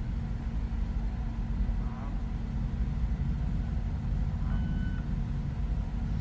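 A car driving, with a steady low road and engine rumble. A short single beep sounds a little past four seconds in.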